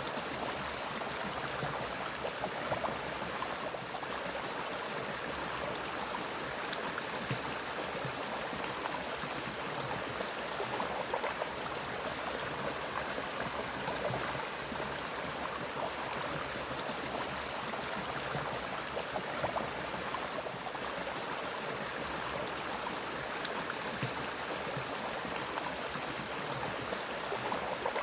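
Mountain stream in a forest flowing steadily, a continuous rush of running water, with a steady high-pitched drone over it.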